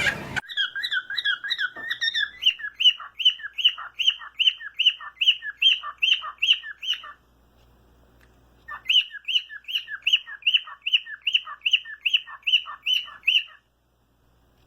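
A bird calling in a fast, even series of short squawking chirps, about three a second, in two runs of several seconds with a short pause between.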